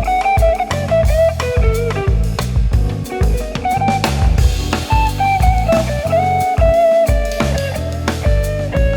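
A band plays an instrumental passage: a drum kit keeps a steady beat under low bass notes, acoustic guitar, and a stepwise lead melody played on keyboard or synthesizer.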